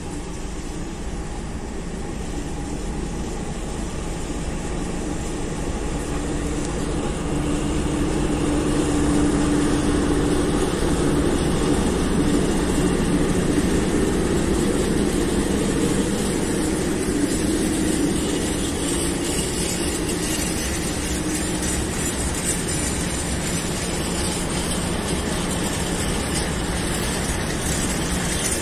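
Freight train passing behind a diesel locomotive: the train grows louder over the first several seconds as it approaches, with a steady low hum through the middle. A long string of hopper wagons then keeps rolling past on the rails.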